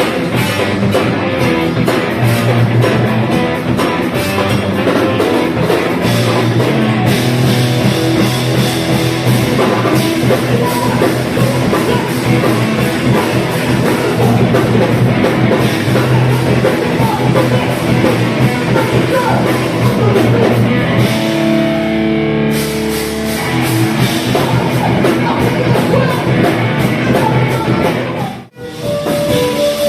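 A live grindcore/crossover band playing loud rock with electric guitar, drum kit and vocals. Around two-thirds of the way through the drumming drops out briefly under held guitar notes. Near the end the sound cuts out for an instant before the music resumes.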